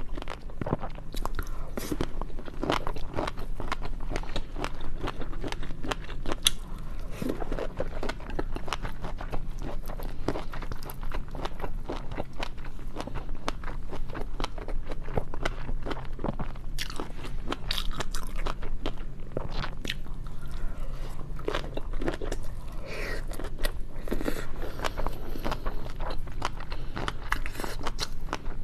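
Close-miked eating: steady chewing with frequent crisp bites and crunches, many small clicks and smacks throughout.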